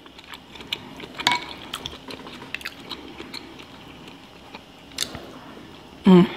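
Close-miked chewing of a lobster roll, lobster meat on a toasted bun: soft wet mouth sounds with scattered clicks, the sharpest about a second in and another near five seconds. A short hummed voice sound comes just before the end.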